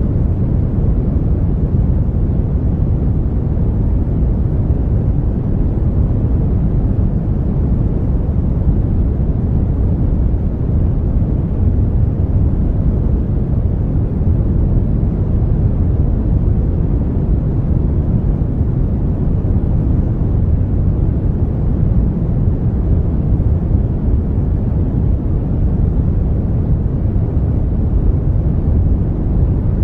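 Brown noise: a steady, deep rumbling hiss with most of its weight in the low end and little treble, unchanging throughout.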